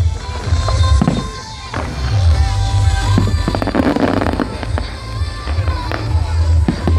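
Fireworks going off, with a spell of rapid crackling about three and a half seconds in, over loud music with a heavy bass.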